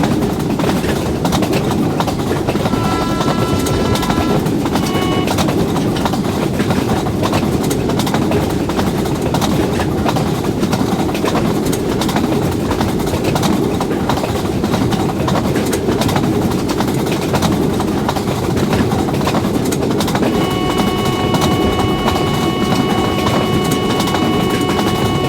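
Train passing at speed: a loud, steady rumble of wheels on rail that runs on without a break. A steady multi-note tone sounds over it for about two seconds near the start and again near the end.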